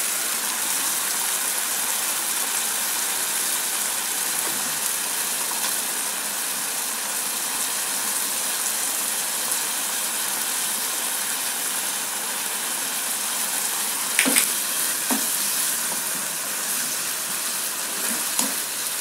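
Sliced beef and onions sizzling in teriyaki sauce in a frying pan, a steady hiss. A wooden spatula knocks against the pan a few times in the last five seconds as the food is stirred.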